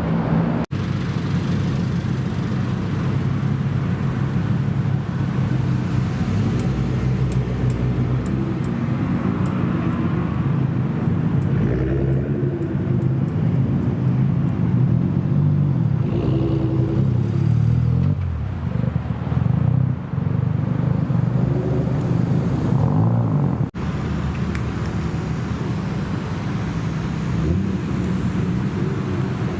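Car engines idling with a low, steady rumble, picking up a few short light revs along the way and cut off suddenly twice.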